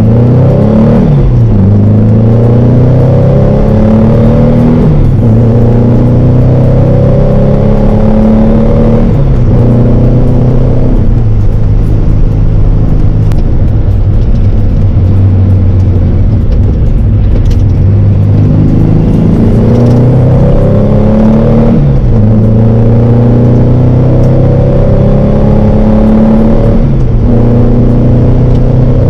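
Porsche 912's air-cooled flat-four engine heard from inside the cabin while driving. The revs climb through each gear and drop at every shift, several times over.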